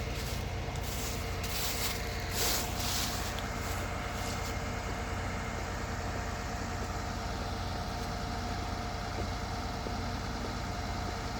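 Vehicle engine idling steadily, a constant low hum with a steady whine over it, with one brief louder noise about two and a half seconds in.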